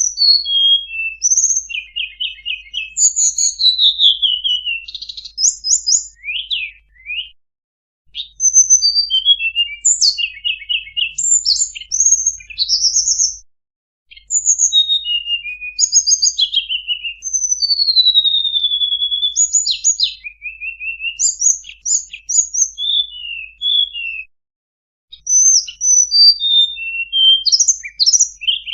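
Tledekan bambu song used as a bird-trapping lure call: a fast, varied string of high chirps, rapid trills and whistled slurs, broken by a few short pauses.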